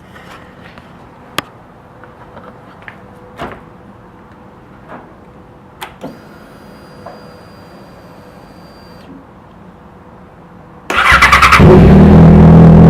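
Yamaha FZ6R's 600 cc inline-four, fitted with a Two Brothers aftermarket exhaust, being started warm. Faint clicks come first, with a faint high whine for about three seconds midway. About eleven seconds in, the starter cranks for half a second, then the engine catches and runs loud and steady.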